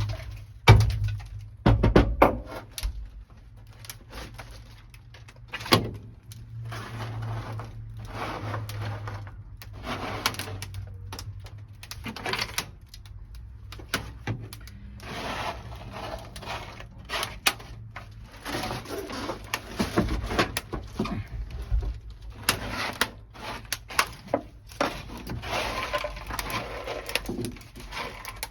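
Irregular sharp knocks and cracks, heaviest in the first few seconds, followed by stretches of scraping and clattering: brittle sound-deadening material, frozen with dry ice, being broken loose and pried off the car's sheet-metal floor.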